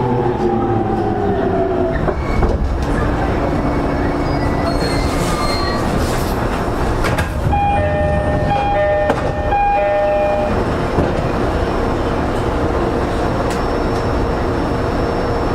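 E231 series electric train running, heard from inside a motor car: steady rolling rumble of wheels on rail, with the traction motor whine falling in pitch at the start. Near the middle, a two-pitch alternating ringing sounds for about three seconds.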